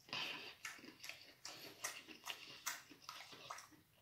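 Chewing crunchy battered fried food: quiet, evenly spaced crunches about twice a second.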